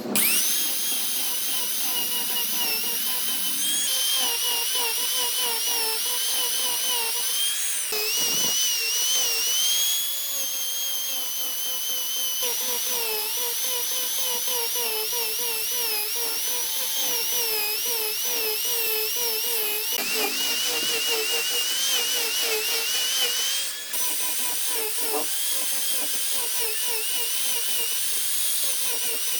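Electric power tool running under load, a whine whose pitch wavers up and down as the work pushes against it; it starts suddenly and dips briefly near the end.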